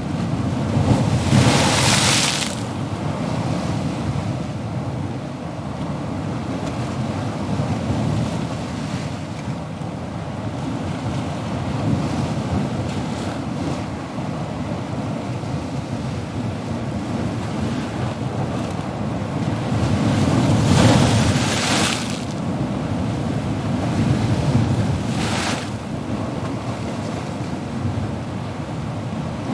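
Ocean waves washing in and breaking on a shore: a steady low rush of surf, with louder breaking waves about a second in and again around twenty and twenty-five seconds.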